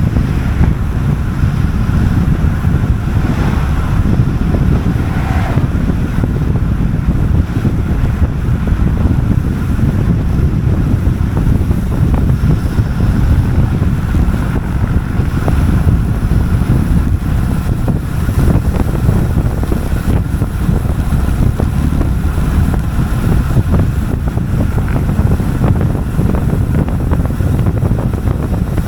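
Loud, steady wind noise buffeting the microphone of a camera on a road bike descending at speed.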